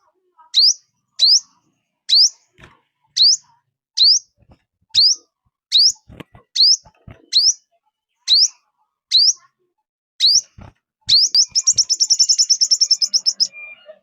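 Lure call of the 'five-coloured bird' (chim 5 màu) for trapping wild birds: a series of short, high, upward-sweeping whistled notes, one about every three-quarters of a second, then a rapid trill of many notes lasting about two seconds near the end.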